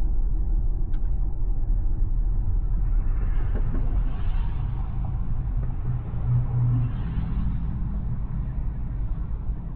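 Steady low road and tyre rumble of an electric Tesla driving, with a hiss that swells about three seconds in and again around seven seconds in.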